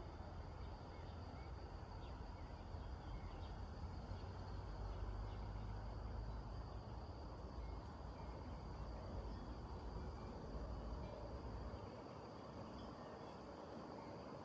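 Insects chirring outdoors: a steady high-pitched trill throughout, over a low rumble that eases off about twelve seconds in.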